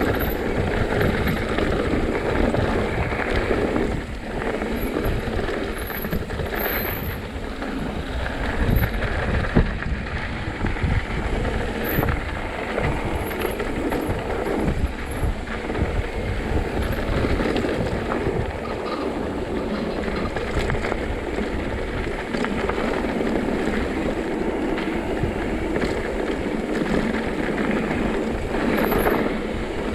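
Mountain bike riding fast down a rough dirt trail: tyres rumbling over the ground, the bike rattling with scattered knocks over bumps, and wind buffeting the microphone.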